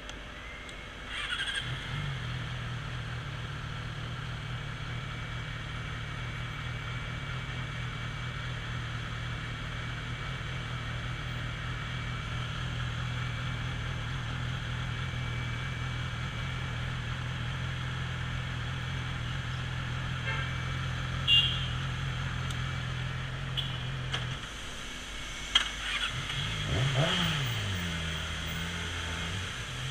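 Motorcycle engine starting about a second in and running steadily. Near the end it cuts out briefly, then revs up and back down and settles to a steady idle. A few sharp clicks are heard along the way.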